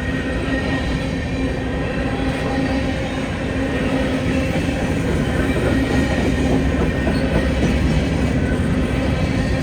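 Freight train rolling past, its cars running steadily on the rails with a continuous rumble.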